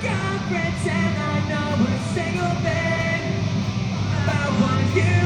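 Punk rock band playing live, a singer's voice over electric guitars.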